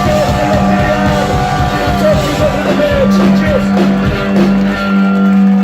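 Live band playing a rock song with singing, over a held low note and steady drum hits.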